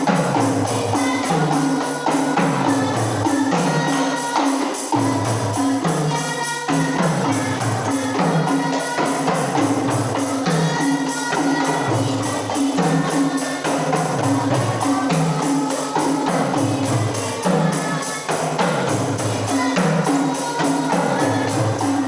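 Rebana frame drums played together in a steady repeating rhythm, with deep strokes that fall in pitch about once a second between sharper slaps.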